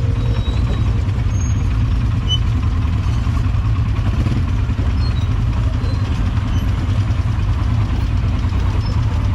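Quad bike (ATV) engine running steadily under way, a constant low rumble with no change in pace.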